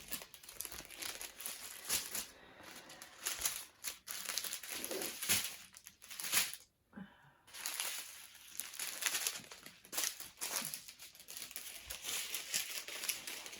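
Small plastic bags of diamond-painting resin drills crinkling as they are handled and shaken, in irregular bursts with a short pause about seven seconds in.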